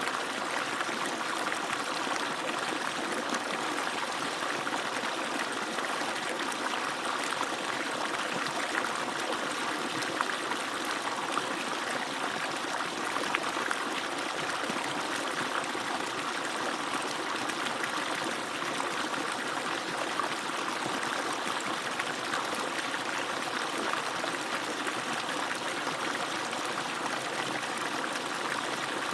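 Water from an agricultural pump's outlet pouring and splashing in a steady stream, with small louder splashes now and then.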